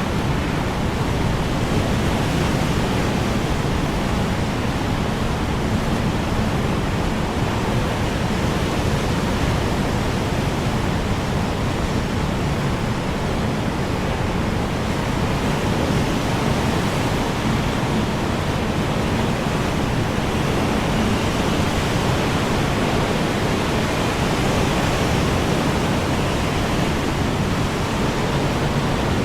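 Strong wind blowing steadily: a dense, unbroken rushing noise with slow, slight swells and no gusts that stand out.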